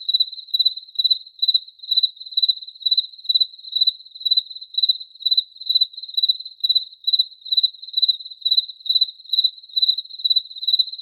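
A cricket chirping steadily in a high, even-pitched trill, about two chirps a second.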